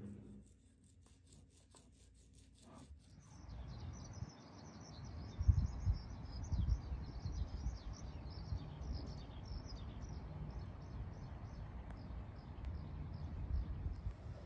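Small birds chirping over and over, over a low uneven rumble. In the first three seconds or so, before the birds, a paint roller rolls faintly over a painted wooden drawer.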